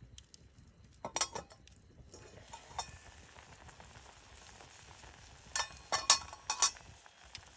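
Wood fire crackling in a fire pit: a soft steady hiss with clusters of sharp pops about a second in and again near the end.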